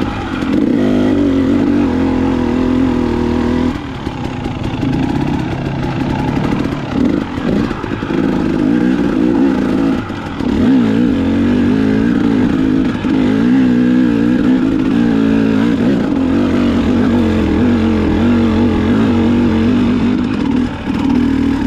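Dirt bike engine running while riding, the pitch rising and falling with the throttle, with brief dips around four and ten seconds in.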